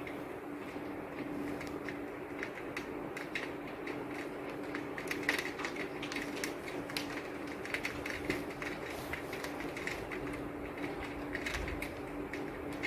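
Rain falling, with drops tapping irregularly on a hard surface over a steady hiss, and a steady low hum underneath.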